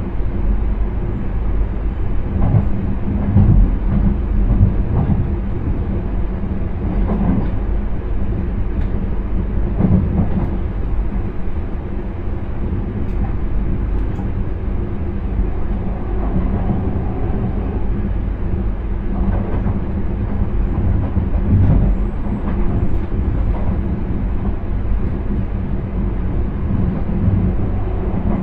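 Intercity train running along the line, heard from inside the driver's cab: a steady low rumble with a few short knocks from the wheels over the track.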